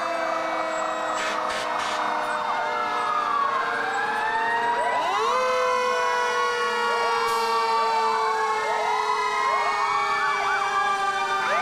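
Several fire engine sirens wailing at once, their rising and falling pitches overlapping. One long siren tone steps up about five seconds in and then slowly winds down.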